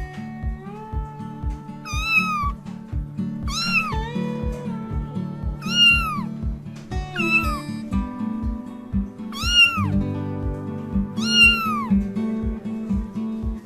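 A cat meowing repeatedly, about six separate high meows that each rise and fall in pitch, over background music with a steady beat.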